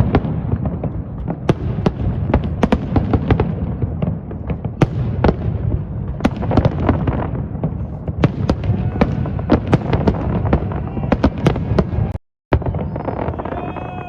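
Fireworks show: rapid, overlapping bangs of aerial shells, several a second, over a steady low rumble of echoing booms. The sound cuts out briefly about twelve seconds in.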